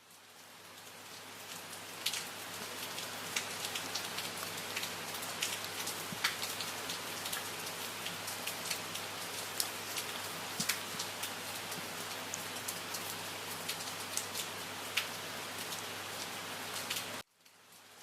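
Steady rain falling, a dense hiss with individual drops ticking sharply here and there. It swells in over the first couple of seconds, then cuts out abruptly about a second before the end.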